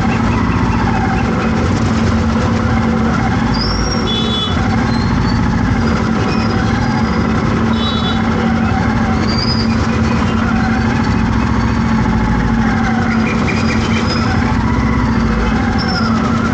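City traffic in a jam: vehicle engines running with a constant low hum. A few short, high beeps sound now and then.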